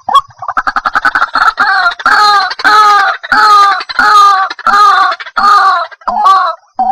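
White-breasted waterhen calling: a quick run of short clucking notes, then a regular series of longer, loud notes, each dropping a little in pitch, about one and a half a second.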